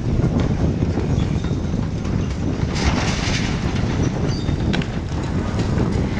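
Crane and heavy demolition machinery at work pulling up wooden wharf planks: a steady low mechanical rumble with brief squeaks and knocks, and a short hiss about three seconds in.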